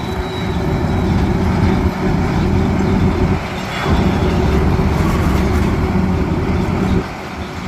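Heavy machinery engine running with a loud, low rumble, dropping in level briefly a few times.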